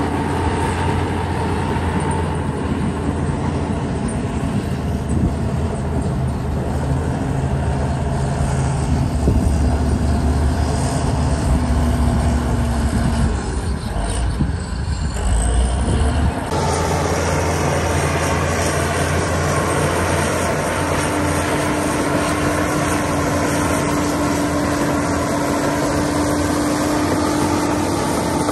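Heavy diesel earthmoving machinery running steadily with a deep, continuous engine drone. The sound changes abruptly about halfway through, and a steady whine joins the drone near the end.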